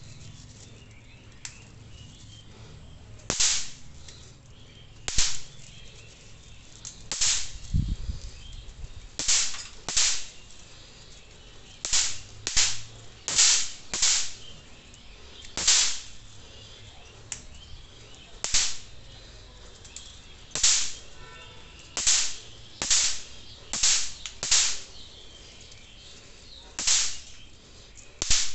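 Bang snaps (magic pops) thrown down one after another, each bursting with a sharp crack on impact. About eighteen cracks come at uneven gaps of roughly one to three seconds.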